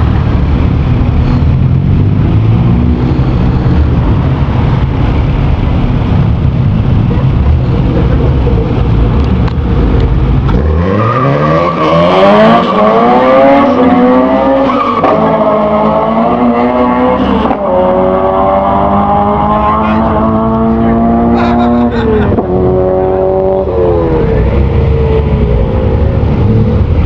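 Street-race cars with a low engine rumble. About ten seconds in, a run launches: the engines rev hard, climbing in pitch through each gear and dropping back at each of several upshifts, then fading as the cars pull away.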